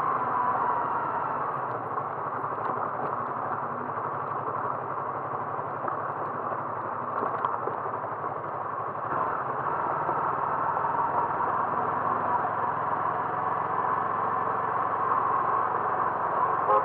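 A vehicle's engine running steadily under a constant rush of road noise, heard while travelling; the sound grows a little louder about nine seconds in.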